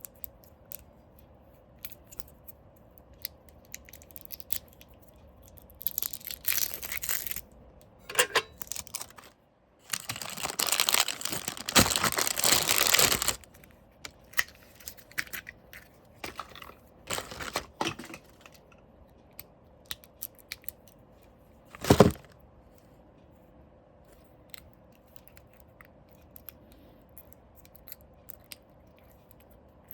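Packaging being handled, with several spells of crinkling and tearing, the longest about three seconds, among small clicks, and one sharp knock about two-thirds of the way through.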